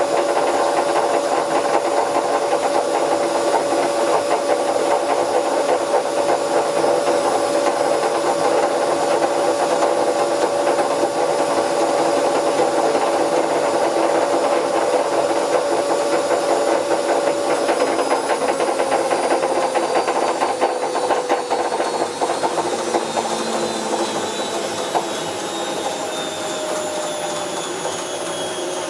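Bauknecht WA Plus 844 washing machine running its drum at speed with a steady whine over a noisy rush, the sound of a damaged drum bearing. From about two-thirds of the way through, the pitch falls slowly and the sound eases off as the drum slows down.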